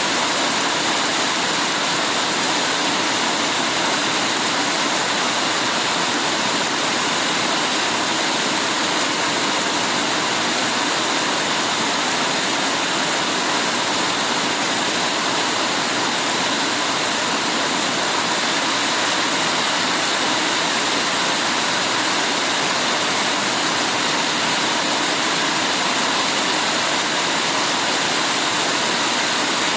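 Heavy rain falling steadily, an even hiss with no pauses or separate drops standing out.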